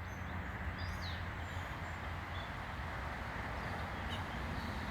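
Steady backyard background noise, an even hiss with a constant low hum, and a few faint, short bird chirps near the start.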